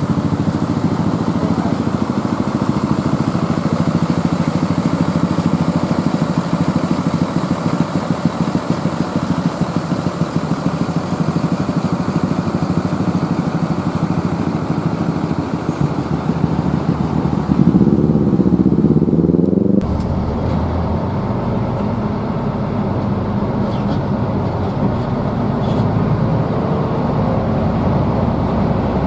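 Hino AK bus's diesel engine running under way with a steady drone. About 18 seconds in, the pitch climbs, then cuts off suddenly a couple of seconds later and settles into a lower, deeper hum, like a gear change.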